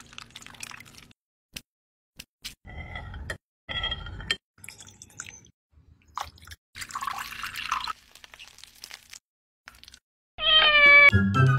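Small kitchen sounds of food and drink preparation: a spoon stirring in a ceramic bowl, light clicks and clinks, and liquid splashing into a glass about seven seconds in. Two short cat meows come about three and four seconds in. Near the end, loud music with a falling melody starts and is the loudest sound.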